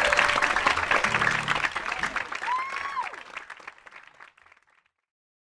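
Theatre audience applauding, with a whoop rising and falling about two and a half seconds in, over held music notes; it all fades out about four and a half seconds in.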